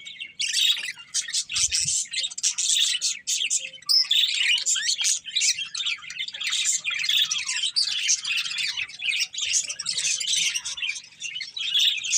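Budgerigars chirping and chattering in rapid, continuous warbling, with a short lull near the end.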